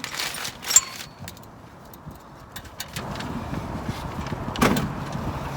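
Metal clicks and clinks of a wrench working on the car's underside during an oil change, with one sharp loud click just under a second in and another about four and a half seconds in. A low steady hum builds from about three seconds in.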